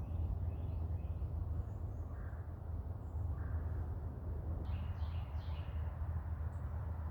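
Wild birds chirping faintly, with a quick group of three descending calls about five seconds in, over a steady low rumble.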